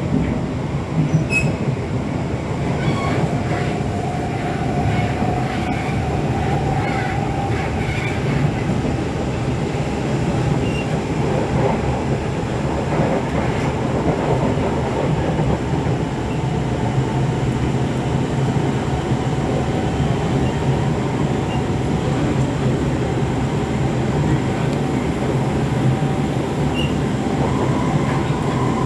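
Inside an SMRT C651 train car running between stations: steady rumble of the wheels on the track, with a faint whining tone that comes and goes.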